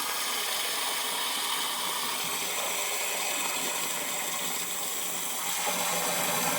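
Water running steadily from a garden hose into a chicken waterer as it is filled.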